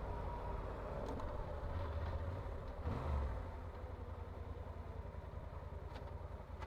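Motorcycle engine running steadily while riding, with road noise; it gets a little quieter in the second half.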